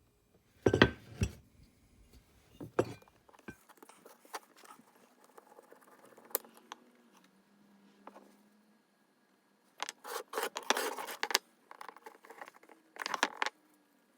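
Metal parts of a Stanley Bailey No. 5 jack plane clinking and knocking as it is taken apart, in sporadic bursts: a cluster of sharp clicks near the start, a longer rattle about ten seconds in, and another shortly before the end.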